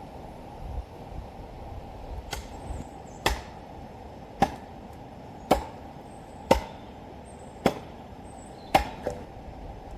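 Sharp strikes at an even pace, about one a second, seven in all, like chopping with a hatchet or axe. Faint high chirps come in between.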